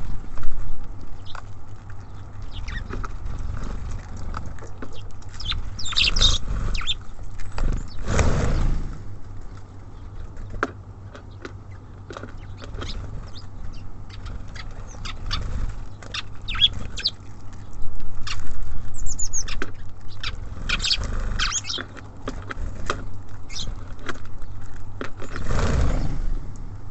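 Small songbirds feeding at a bird feeder: many quick pecking and tapping clicks of beaks and feet, a few brief high chirps, and a couple of short flurries of wingbeats as birds come and go.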